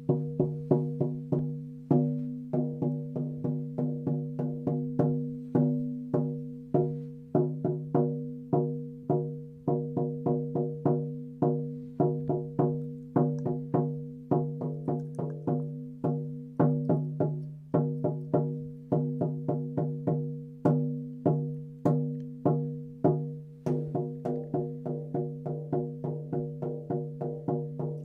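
A 14-inch deer-hide frame drum with a maple hoop, struck over and over with a soft sound-healing beater. Each stroke rings on with a low, steady tone, in an uneven pattern of about two to three beats a second with louder accents.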